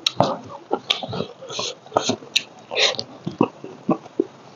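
Close-miked chewing of a mouthful of rice, with wet lip smacks and mouth clicks coming irregularly, several a second.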